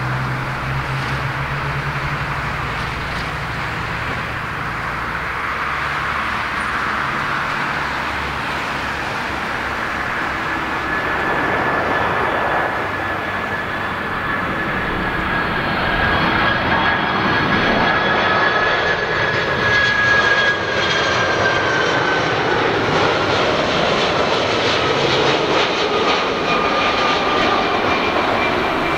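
Jet airliner engines on landing approach: a broad engine rush that builds and gets louder about halfway through, with a high fan whine that drifts slightly lower in pitch as the aircraft passes.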